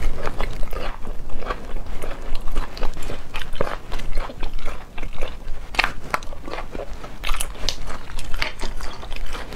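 Person chewing and biting sauced snail meat, heard as a dense, irregular run of short wet clicks and smacks from the mouth.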